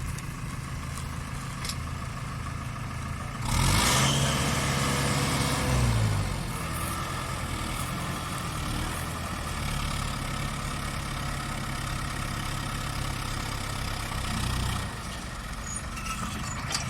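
New Holland TD75D tractor's diesel engine idling, revved sharply about three seconds in and settling back to idle a couple of seconds later, then held slightly above idle for several seconds before dropping back near the end.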